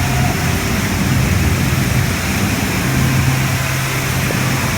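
Loud, steady rushing and splashing of water in a water-park pool, with a low hum that drops out about two seconds in and returns about a second later.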